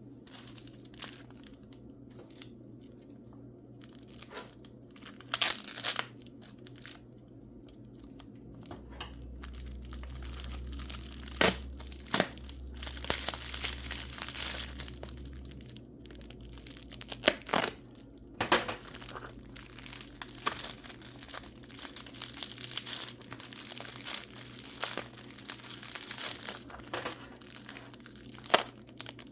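Paper wrapping being crumpled and torn open by hand while mineral specimens are unwrapped, with repeated crinkling and several sharp clicks.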